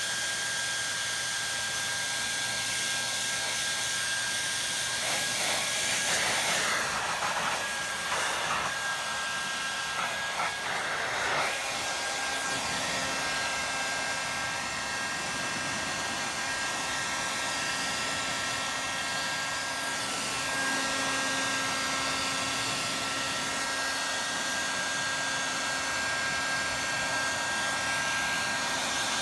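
Hair dryer running continuously: a steady rush of blown air with a constant motor whine. Between about six and twelve seconds in, the sound of the air wavers unevenly before settling back.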